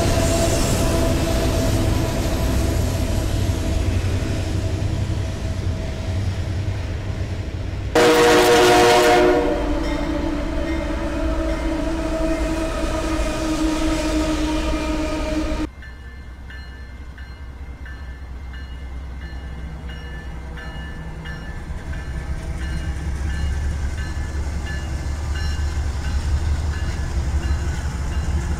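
Freight trains passing in a series of separate clips. First a double-stack intermodal train rolls by. About eight seconds in, a diesel locomotive's air horn sounds loud and sustained, then fades. From about halfway through there is the lower, steadier rumble of Canadian Pacific and CN diesel locomotives passing, growing louder toward the end.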